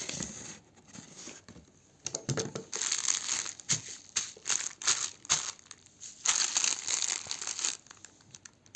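Plastic packaging crinkling and rustling as it is handled, in irregular bursts with short pauses.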